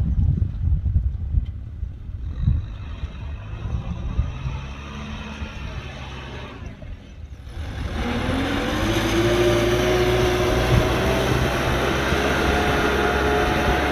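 Kubota M6040SU tractor's diesel engine running low and uneven, then revving up about eight seconds in, its pitch rising and settling into a steady, louder run under load.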